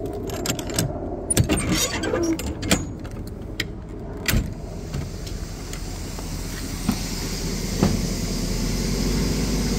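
1957 Cadillac Series 62's V8 running at low speed as the car creeps into an enclosed trailer, a steady low rumble that grows a little louder through the second half. In the first few seconds there is a scatter of sharp clicks and knocks.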